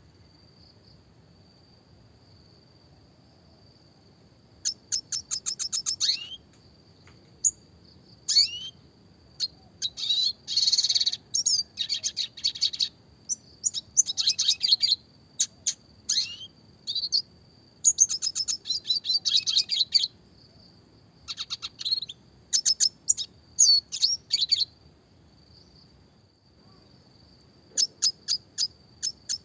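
Red siskin (Spinus cucullatus) singing in bursts of rapid high twittering trills and quick repeated chirps, separated by pauses of a second or more. A faint steady high tone runs underneath.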